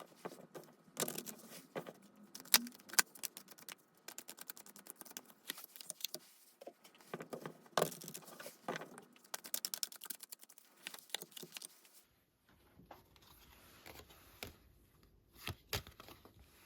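A deck of tarot cards being shuffled and handled: crisp clicks, flicks and quick riffling runs of card edges. About twelve seconds in it drops to a quieter stretch with only a few separate clicks.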